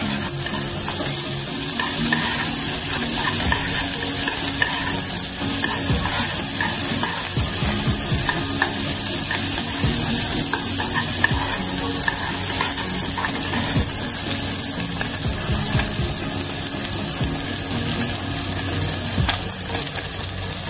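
Chicken skin and fat sizzling in hot oil in a saucepan as the fat renders out into chicken oil, with a metal spoon stirring and scraping against the pan in frequent short strokes.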